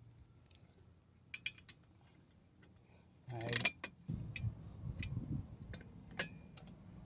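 Metal clinks and clunks as a steel exhaust header is handled and fitted to a small-block Chevy's cylinder head, with a few sharp clicks, a louder scraping burst about three seconds in, then low rumbling handling noise with scattered clinks.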